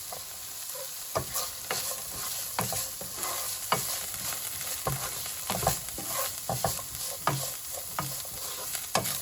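Capsicum and beans sizzling in hot oil in a pan while a spatula stirs them. The spatula scrapes and knocks against the pan irregularly, about once or twice a second, starting about a second in.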